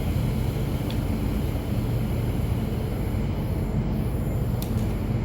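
MTR Q-train metro train running on the rails, a steady low rumble of wheels and running gear.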